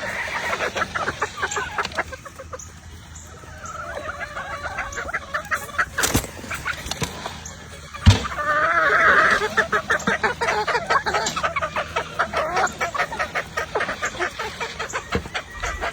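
Lacy Roundhead gamefowl clucking, with a rooster crowing twice, about four seconds in and again about halfway through. A sharp knock comes just before the second crow.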